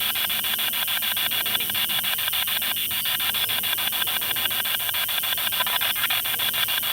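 Spirit box (ghost box) sweeping through radio stations: steady radio static chopped into rapid, even clicks.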